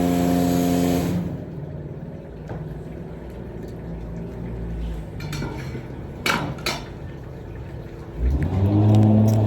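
Car wash pressure-washer pump running with the hiss of the spray, cutting off about a second in; then a few light clinks and knocks, and music comes in near the end.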